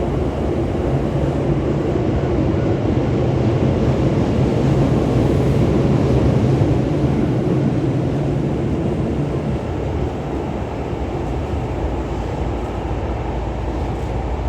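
Hankyu 3300 series commuter train running through the Osaka Metro Sakaisuji Line tunnel, heard from inside the car: a steady rumble of wheels on rail with a low hum, growing a little louder and then easing off in the second half.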